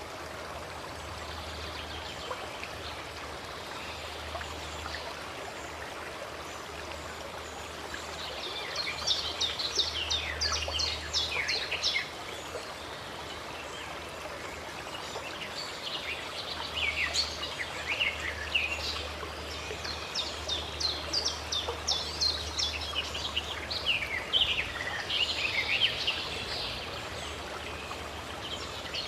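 Running water with a steady rush, and songbirds singing in quick chirping phrases that come and go, busiest in the second half.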